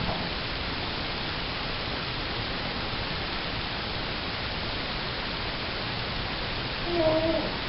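Steady, even hiss with no rhythm. About seven seconds in, a brief two-tone hum rises above it.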